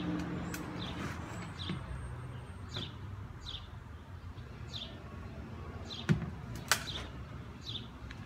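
A bird repeating a short, falling chirp a little more than once a second. Two sharp knocks a moment apart, about six seconds in, are the loudest sounds.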